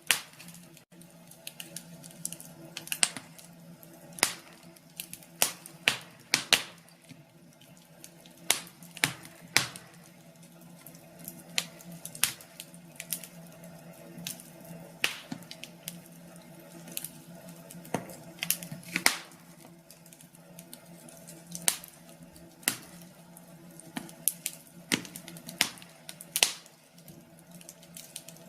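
Wood fire crackling, with irregular sharp pops and snaps several times a second over a faint low steady hum.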